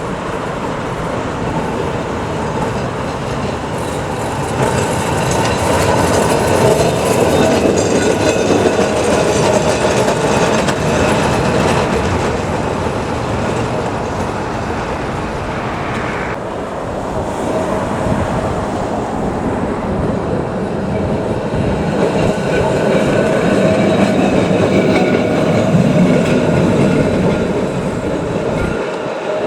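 Heritage electric tram running along the track, its wheels clattering on the rails. It grows louder twice, about five seconds in and again near the end.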